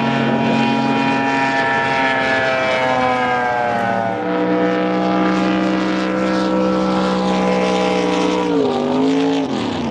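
A large engine running at steady speed. Its pitch slides down about three to four seconds in, holds, then drops and comes back up near the end as the throttle changes.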